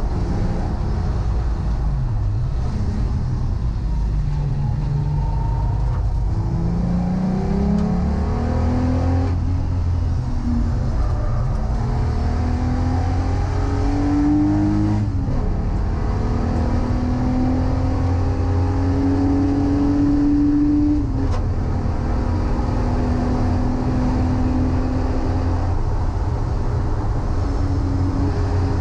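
VW Corrado's VR6 narrow-angle V6 engine pulling hard through the gears on track, over a constant heavy drone. Its pitch climbs steadily in long pulls and drops sharply at each upshift, twice in the second half.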